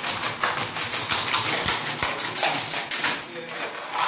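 Floor-removal machine running while stripping wood flooring: a rapid, even chatter of about eight strokes a second. It eases off a little past three seconds in and picks up again near the end.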